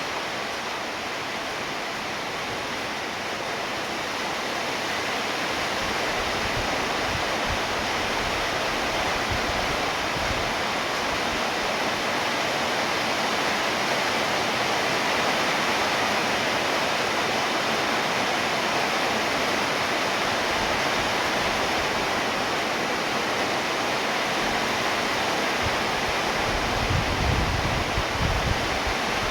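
Steady heavy rain falling, a dense even hiss that grows a little heavier a few seconds in. Low rumbling comes in near the end.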